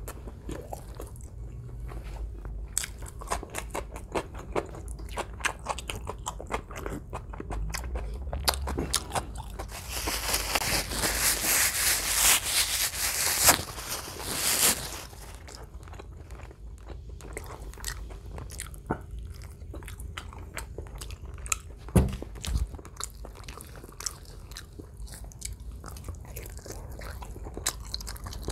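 Close-miked eating of roast chicken: biting and chewing with dense wet mouth clicks and smacks, and a louder crunchy stretch about halfway through. One sharp thump about two-thirds of the way in.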